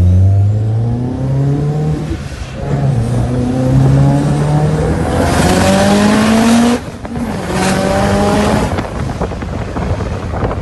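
The turbocharged 2.0-litre 4G63 four-cylinder of a modified Lancer Evolution IX MR accelerating hard, heard from inside the cabin. Its pitch climbs through each gear and drops back at gear changes about two and a half and seven seconds in. A loud hissing rush rises over the engine just before the second change.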